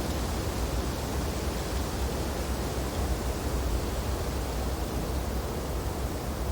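Steady wind blowing through tree branches in snowy weather: a constant rushing noise over a low rumble, with no gusts or breaks.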